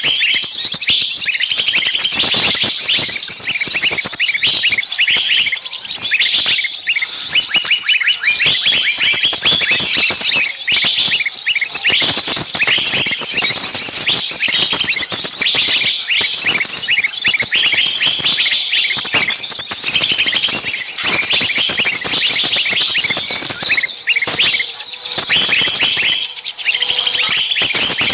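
A dense, noisy chorus of many small songbirds calling at once, rapid high chirps and shrill scolding notes overlapping without a break. It is a bird-lure recording of agitated, screaming calls like those of a caught bird, meant to draw small birds in.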